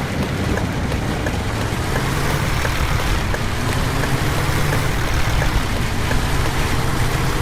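School bus engine running, with a steady low drone that settles in about two seconds in, over a constant hiss of heavy rain.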